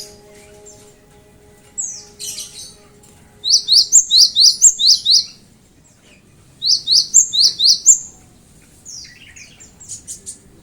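Cinereous tit (gelatik batu) singing: two fast runs of sharp, high whistled notes, about five a second, each run lasting a second or so, with a few scattered single chirps around them.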